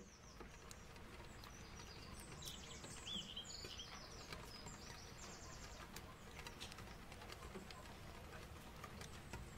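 Faint birdsong ambience: clusters of high chirps and trills, busiest between about two and a half and four seconds in and again around six seconds, over a soft steady background hiss.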